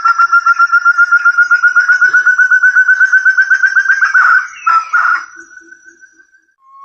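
Forest partridge (puyuh hutan, 'burung terung') calling: a fast run of clear whistled notes, about ten a second, rising slightly in pitch. The run breaks off after about four seconds and is followed by a short note and one long, fading whistle. This is the clear call used as a lure for trapping the bird.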